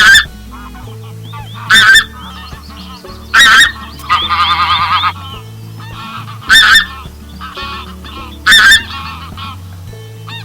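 Large waterfowl honking: five short, loud honks spaced about two seconds apart, with a longer wavering call a little after 4 s. Steady low tones run underneath.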